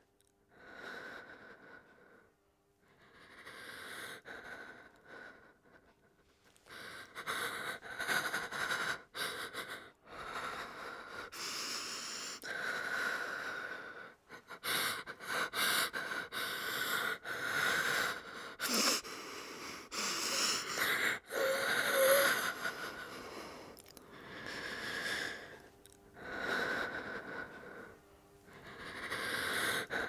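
A frightened woman breathing: slow separate breaths at first, quickening into fast, heavy breathing with gasps through the middle, then easing back to slower breaths near the end.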